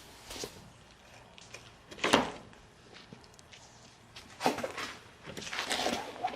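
Tools and parts being handled at a workbench: a sharp knock about two seconds in, another about four and a half seconds in, and a run of clattering near the end.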